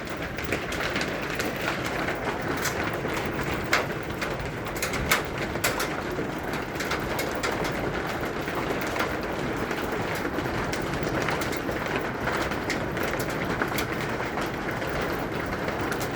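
Heavy rain pouring steadily, with many sharp ticks and clicks of hailstones striking hard surfaces.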